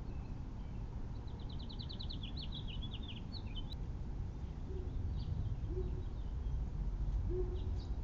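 A small songbird sings one short, high song about a second in: a quick trill of evenly repeated notes that breaks into a few jumbled, falling notes and ends on a sharp upward note. A few single faint chirps follow, over a steady low background rumble.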